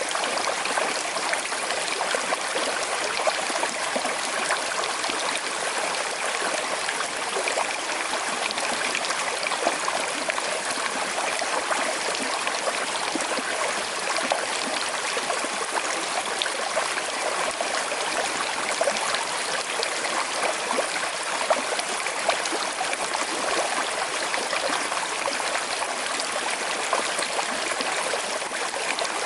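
Small river flowing steadily over stones, a constant babbling wash with fine trickling and gurgling.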